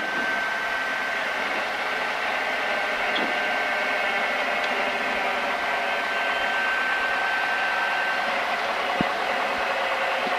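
Steady cockpit noise of a light training aircraft during the landing roll: engine and airflow as a constant hiss with a thin, steady high tone that stops about eight seconds in.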